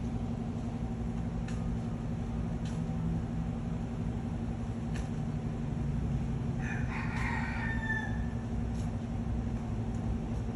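A rooster crows once, a call of a little over a second about seven seconds in, over a steady low hum.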